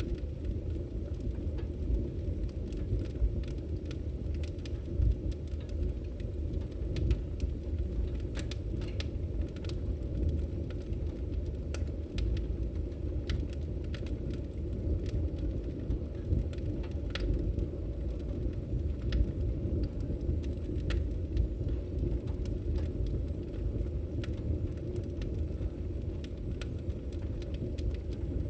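Fireplace fire crackling: a steady low rumble of the flames with frequent sharp pops and snaps scattered irregularly throughout.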